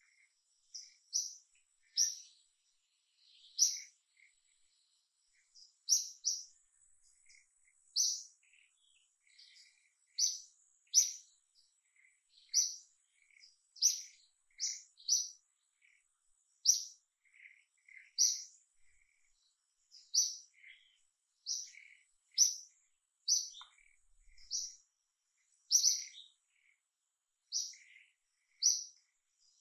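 A bird chirping over and over: short, sharp, high-pitched notes, often in pairs, about one or two a second, over a faint steady high-pitched whine.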